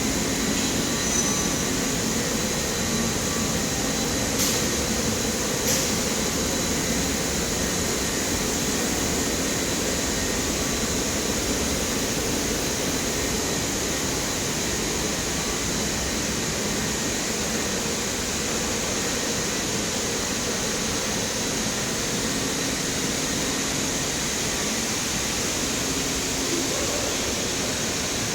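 Rubber extrusion and microwave vulcanization line running: a steady machine hum and hiss with faint steady tones, and two short clicks about four and six seconds in.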